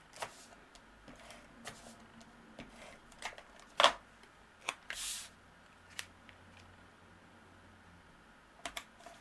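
Paper and cardstock being handled and pressed down on a craft table: scattered light taps and clicks, the loudest a sharp click about four seconds in, with a short paper rustle about a second later.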